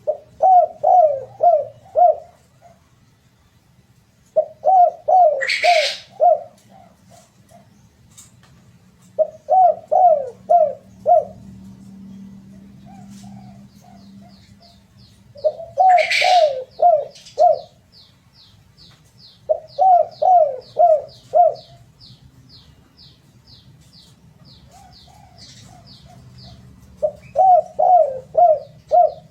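Derkuku dove cooing in six repeated phrases of four or five quick coos each, spaced several seconds apart, played as a lure to set other doves singing. A second bird chirps a fast run of high, even ticks through the second half, and there are two short noisy rushes, one near the start and one midway.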